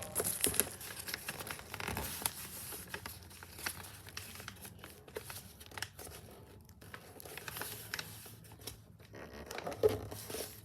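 Sheet of paper rustling and crinkling in irregular short crackles as a paper airplane's wing is folded over and creased by hand.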